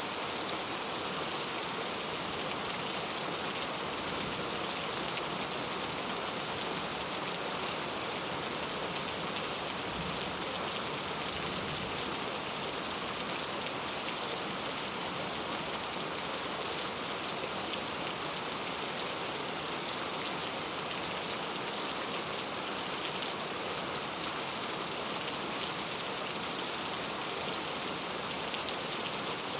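Steady rain falling, an even hiss of dense drops with faint scattered patters of individual drops hitting a surface.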